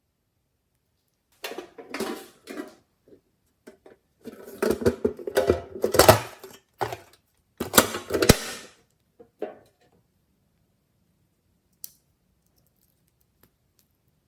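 Glossy slime being squeezed and worked by hand, giving irregular runs of sticky clicks, crackles and pops for several seconds, with a single click near the end.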